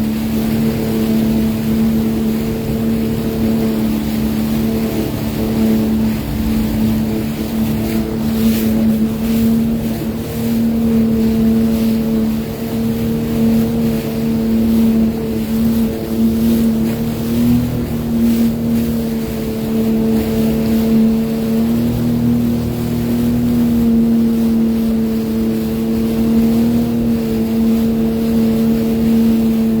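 Sea-Doo Fish Pro personal watercraft engine running at a steady speed, an even hum with a rush of wind and water, and a few brief slaps or knocks about a third and two thirds of the way through.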